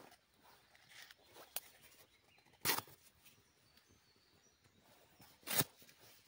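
Dry branches being broken and handled for a campfire: two short, sharp cracking crunches about three seconds apart, with faint rustling and small snaps between them.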